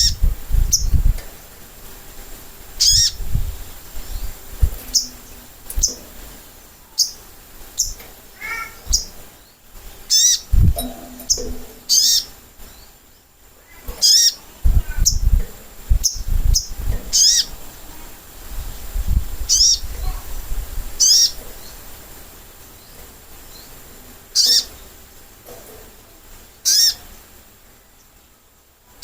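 Sogok ontong, a sunbird, giving short, sharp high-pitched chirps at irregular intervals, roughly one every second or two, as in a lure-call recording used to get a young bird to answer. Low thumps are heard between some of the calls.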